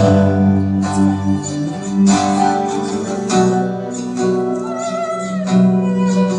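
Live guitar music played as an instrumental passage between sung lines, with chords strummed about once a second.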